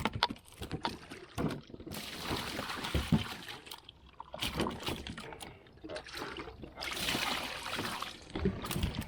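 A freshly caught channel catfish thrashing in a kayak: irregular knocks and taps against the boat, with splashing and sloshing water. There are two longer bouts of splashing, about two seconds in and again about seven seconds in.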